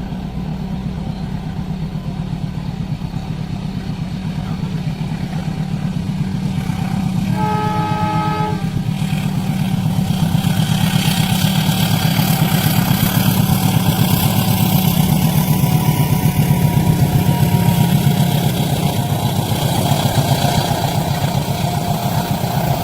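A train passing a level crossing. Under a steady low engine drone, one horn blast sounds about seven seconds in and lasts about a second. The running noise of the train then swells, loudest about midway through the rest of the passage.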